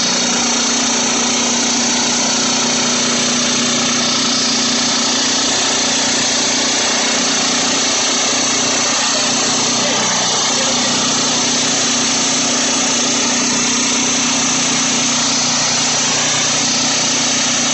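Gas engine of a 22-inch portable sawmill running steadily at speed, with a loud continuous machine noise and a hiss from the saw.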